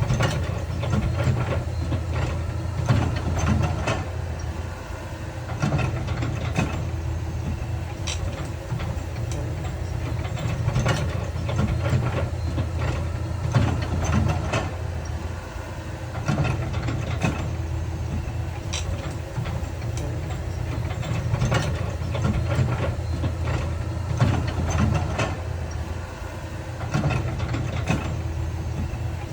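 Heavy diesel earthmoving machinery running steadily at a low rumble, with frequent sharp clanks and knocks of rock and steel.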